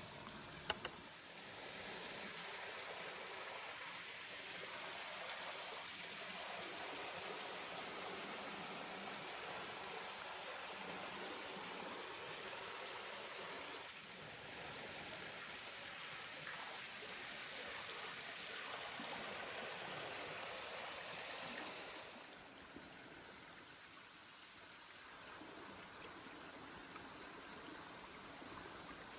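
Water running in a rocky creek, a steady rushing hiss that drops to a quieter level about three-quarters of the way through. Two sharp clicks sound just under a second in.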